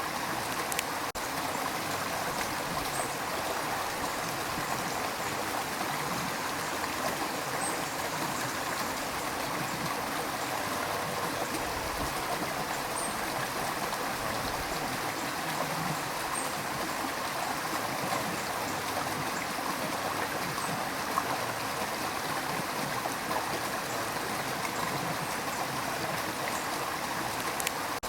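River water rushing and gurgling over rocks, a steady even flow with no change in level.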